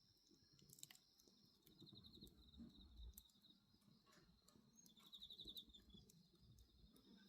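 Faint bonfire crackling with scattered sharp pops, under crickets and other night insects. The insects keep up a steady high-pitched trill, and a pulsed chirp breaks in about two seconds in and again around five seconds in.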